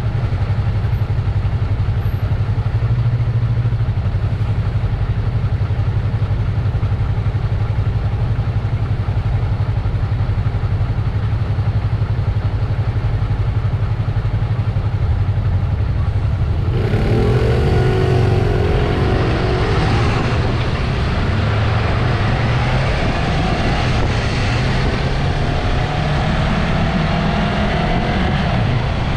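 Yamaha MT-03's parallel-twin engine running at a steady low idle, then, about seventeen seconds in, pulling away and accelerating, the revs rising and dropping through gear changes and climbing again near the end.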